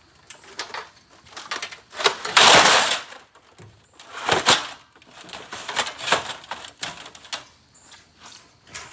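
Boards being handled and stacked by hand: scattered knocks and clatter, with a loud scrape about two and a half seconds in and another strong knock-and-scrape about a second and a half later.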